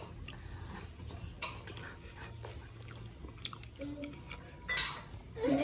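Close-miked eating sounds: steamed momo dumplings being chewed, with soft fork clicks against the plate. Near the end a dog whines briefly.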